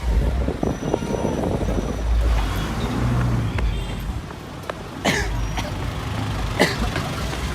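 Street traffic noise: a steady low rumble of motor vehicles, with two sharp knocks about five and six and a half seconds in.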